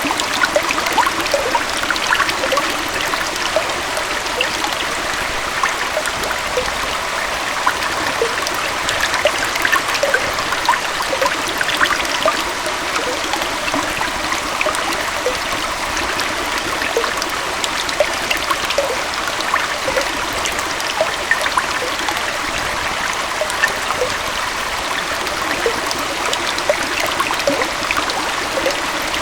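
Small waterfall and forest stream flowing steadily, its even rush of water dotted with many small splashes and plinks.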